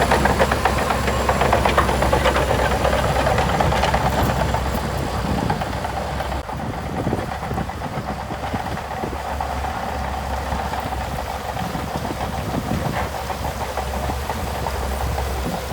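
Heavy earthmoving machine's diesel engine running steadily, with a dense rattle over it that eases off about six seconds in.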